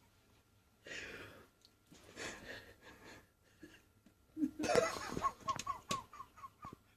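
A person laughing: breathy, wheezy snickers early on, then the loudest part, a quick run of short high-pitched giggles from about halfway to near the end.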